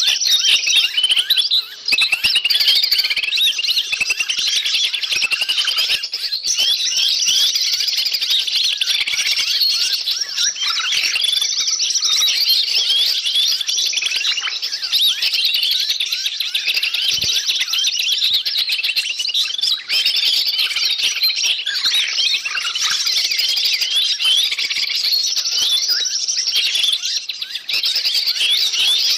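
Dense, unbroken chatter of many small birds twittering and squawking over one another, a noisy mixed-bird lure (pikat) recording used to draw wild forest birds in.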